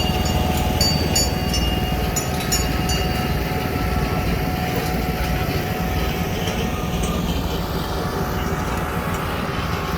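A large parade vehicle's engine running with a steady low rumble as it passes close by, with a few light high clicks in the first three seconds.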